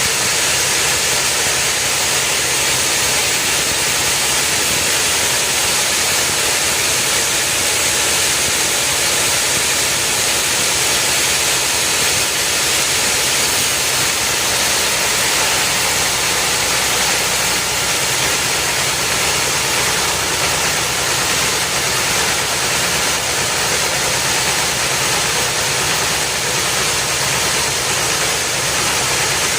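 Loud, steady machine noise from running heavy equipment, with a hissing high-pitched edge and no change in pitch or level.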